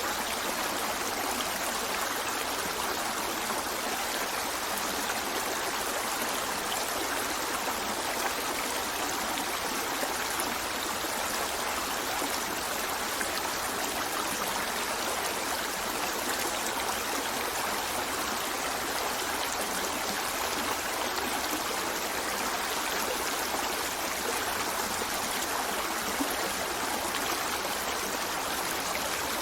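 River water flowing steadily over stones, a continuous babbling with no breaks.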